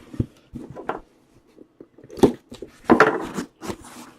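Handling noises as a trading-card box is opened and its contents pulled out: a string of irregular taps, clicks and scrapes, loudest a little past the middle.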